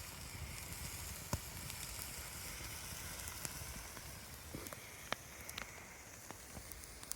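Food sizzling in a pan over a campfire: a steady hiss with occasional sharp pops.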